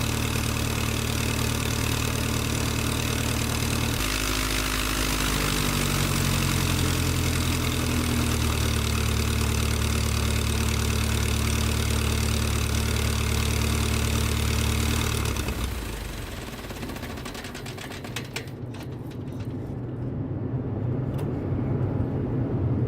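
An engine running steadily, slowing to a lower speed about four seconds in, then shutting down about fifteen seconds in. A few faint clicks follow.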